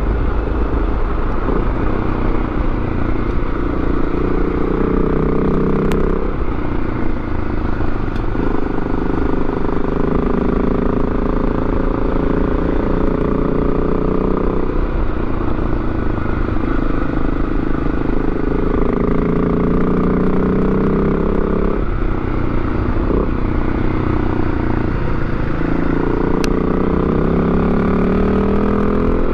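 Yamaha Ténéré 700's parallel-twin engine under way, heard from the rider's seat over wind noise. The engine note climbs under throttle and falls back several times.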